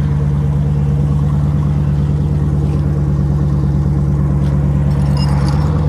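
Jeep Grand Cherokee SRT's HEMI V8 idling steadily through a muffler-deleted, straight-piped exhaust, loud and even with no revving.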